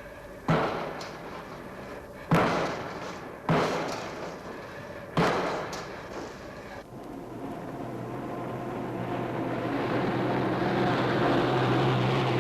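Heavy construction work: four loud impacts one to two seconds apart, each dying away, then from about seven seconds a machine's engine running and growing steadily louder.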